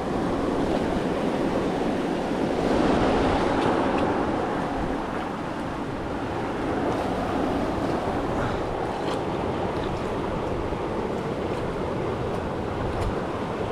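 Steady rushing of river water pouring over a waterfall, a little louder about three seconds in.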